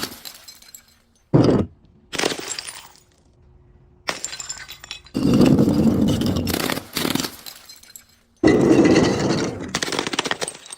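Glass being crushed and breaking: two short cracks in the first two seconds, then two long stretches of crunching and shattering, from about five seconds in and again from about eight and a half seconds.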